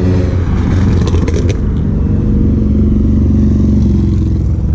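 Car engine and exhaust rumbling as a car cruises past at low speed, with a few sharp clicks about a second in.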